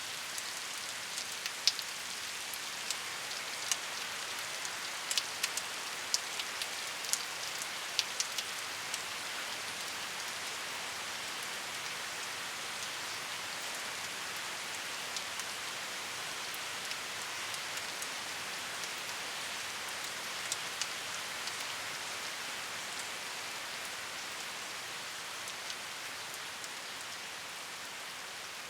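Steady rain falling, an even hiss with scattered close drops ticking on a surface, the ticks most frequent in the first third.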